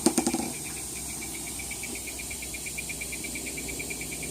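Loud, high-pitched animal call repeating as a rapid, even train of chirps at one pitch, like an electronic alarm. A brief click comes right at the start.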